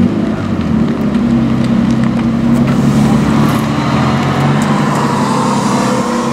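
Sports car engines running at low speed as cars roll out past the camera, a Porsche 911's flat-six passing close by with a tuned Japanese sports car following. A steady low engine hum, with an engine note rising gently near the end as a car pulls away.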